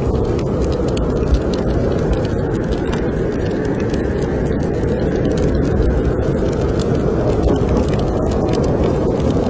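Blizzard wind blowing in a steady, heavy low rush, with small scattered crackles and pops from a wood fire burning in a fireplace.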